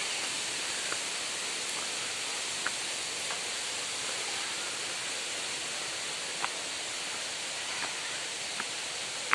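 Steady rushing of a waterfall, an even hiss of falling water, with a few short ticks heard over it.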